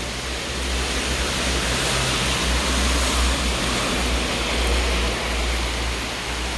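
Heavy rain pouring steadily, big drops hissing on pavement and hard surfaces, with a low rumble underneath.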